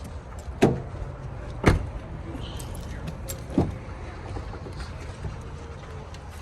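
Three dull knocks or thumps, about a second and two seconds apart, the second the loudest, over a steady low rumble.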